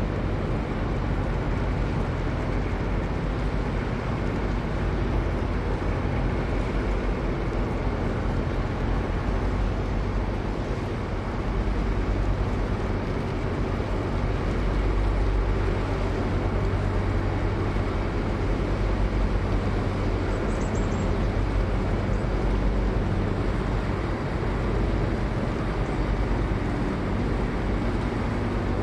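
Steady low drone of a river sand barge's diesel engine, running evenly.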